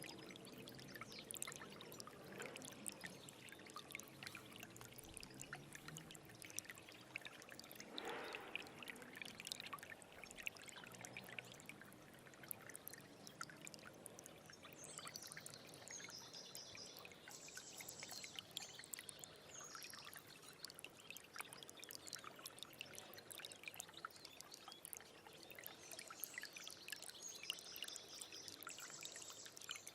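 Stream water trickling and babbling steadily with many small splashes. A bird gives a short, high, patterned song twice, once about halfway through and once near the end.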